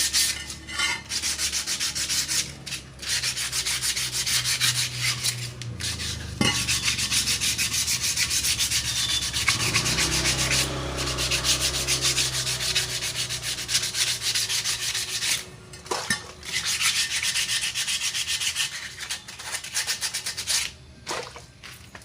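Rapid abrasive rubbing strokes on a motorcycle wheel rim, stopping briefly a few times.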